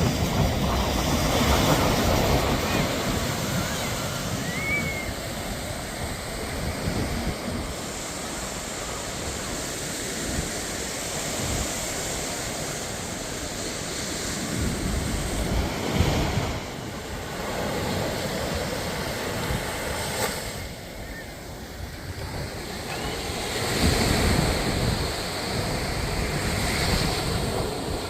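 Sea waves breaking and washing up on a beach, the surf swelling and ebbing, with wind buffeting the microphone.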